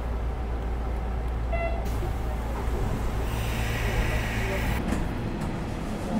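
Electric commuter train running on the rails with a steady low rumble, a hiss rising for a second or so past the middle, then the rumble dropping away about five seconds in as the train slows.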